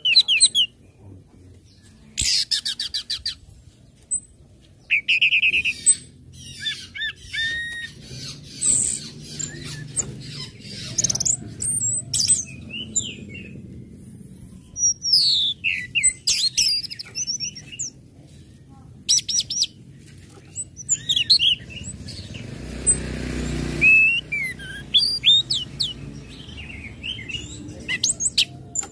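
Orange-headed thrush (anis merah) singing: a varied string of whistled phrases and slurred notes, broken several times by rapid runs of sharp chips.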